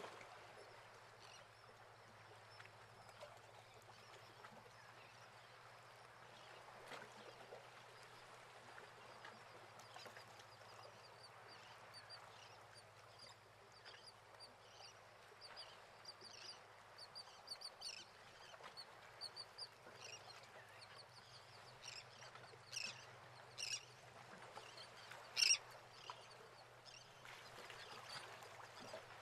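Birds calling: a string of short, high calls that thickens through the middle, with a few louder calls near the end, over faint steady background noise.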